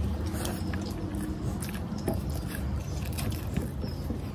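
Close-miked chewing of a mouthful of rice eaten by hand: wet smacking and many short clicks of the mouth, over a steady low rumble.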